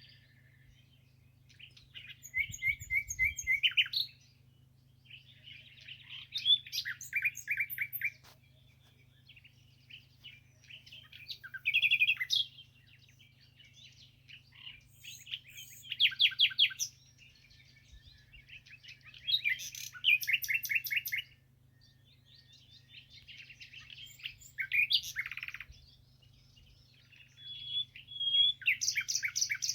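A songbird singing in short, fast, trilling phrases of one to two seconds, about seven of them, with pauses of a few seconds between.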